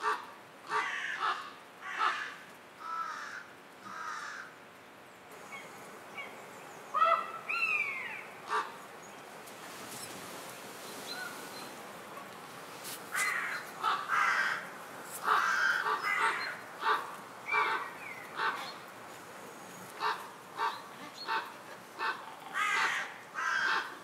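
Wild birds calling: short harsh calls repeated in bouts of a few a second, with one call that slides in pitch about seven seconds in.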